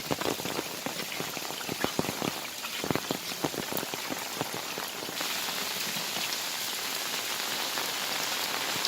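Heavy rain falling, with many close, sharp drop impacts over the first half. About five seconds in, it turns into a denser, louder, steady hiss.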